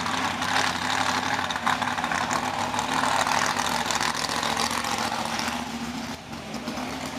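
A vehicle engine idling steadily, with a loud rushing noise over it.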